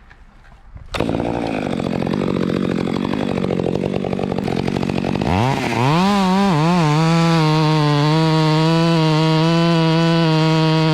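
Two-stroke chainsaw starting up about a second in and running roughly at low speed, then revved up about five seconds in and held at a steady full-throttle whine.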